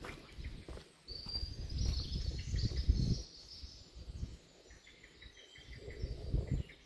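Small birds singing in streamside woodland, over low rumbling noise on the microphone that swells about a second in and again near the end.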